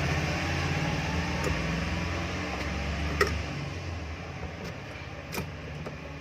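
Single-phase kitchen exhaust fan motor running with a steady hum. A sharp click comes about three seconds in, after which the low hum drops away and the sound fades as the fan winds down.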